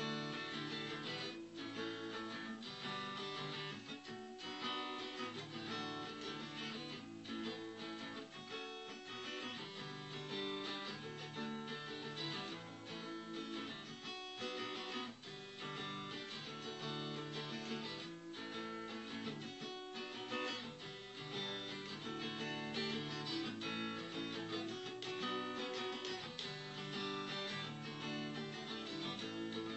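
Acoustic guitar strummed, running through a sequence of chords that change every second or so.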